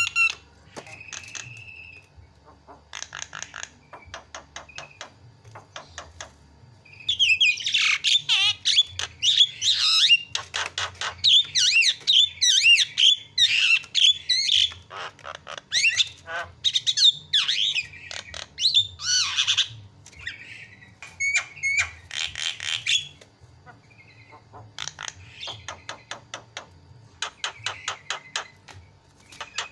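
Javan myna (jalak kebo) singing: a fast run of harsh chattering squawks mixed with quick sweeping whistled notes, loudest through the long middle stretch, with softer rapid clicking phrases before and after.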